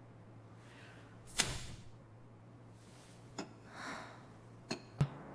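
A door shutting once, sharply, about a second and a half in, followed by a few faint clicks and a soft rustle over a low steady hum.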